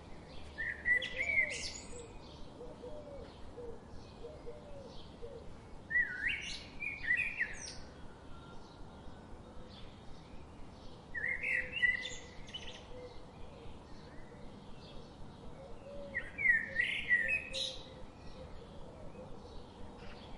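A songbird singing four short phrases of quick chirps and whistles, one about every five seconds. Faint, regular soft ticks run behind them.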